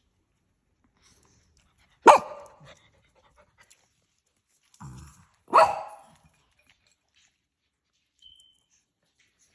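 A dog barking twice, about three and a half seconds apart, with a softer low sound just before the second bark.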